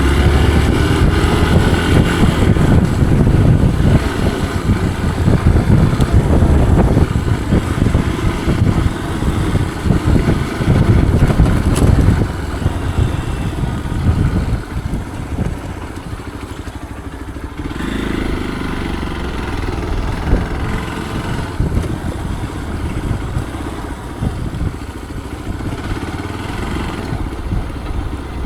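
Motorcycle engine running on an off-road trail ride, louder in the first part and easing off about twelve seconds in.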